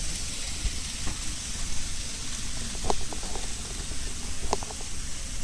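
Model freight train running on layout track: a low rumble under a steady hiss, with a few short sharp clicks about three seconds in and again near the end.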